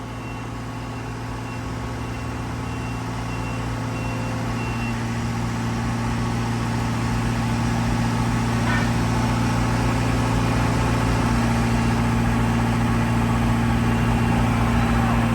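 Rippa RS20 skid steer's engine running steadily, growing gradually louder. A faint, evenly repeating high beep sounds for the first few seconds.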